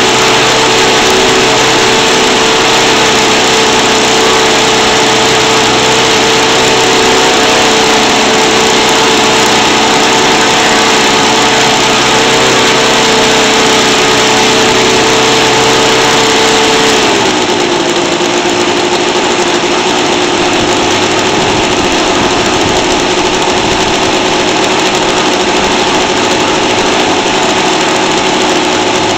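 Seidel 7-70 seven-cylinder four-stroke glow radial model engine running steadily on a test stand, turning a 24 x 10 propeller during break-in. About 17 seconds in, it is throttled back and settles at a lower, slightly quieter speed.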